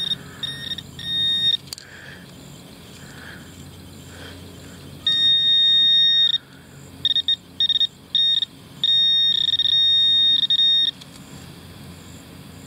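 Handheld metal-detecting pinpointer sounding a steady high electronic tone that switches on and off. It comes in short beeps and in unbroken tones of a second or two as the probe is worked over a small buried metal target.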